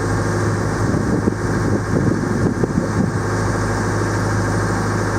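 A motorboat's engine running steadily with a constant low hum.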